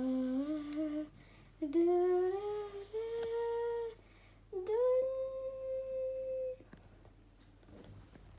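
A child humming a wordless tune in three long held notes, each higher than the last, ending about six and a half seconds in.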